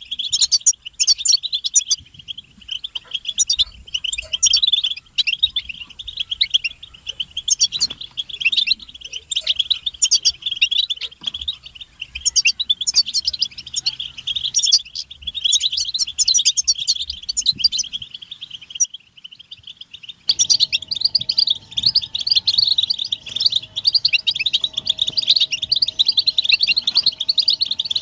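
A group of European goldfinches twittering and calling, a dense run of rapid, high chirps. The chatter stops for about a second and a half near two-thirds of the way through, then starts again.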